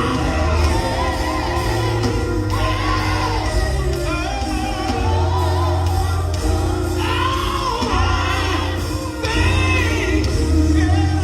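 Live gospel group singing with band accompaniment: a lead voice sings high, wavering phrases of a few seconds each over a steady bass line and held chords.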